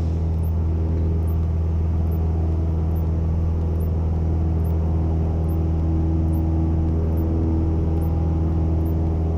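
Cessna 172N's four-cylinder Lycoming engine and propeller running steadily at low power, with no change in speed.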